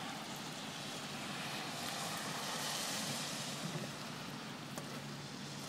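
Traxxas 1/10 rally RC car running on wet ground: a steady hiss that swells for a second or so about two to three seconds in.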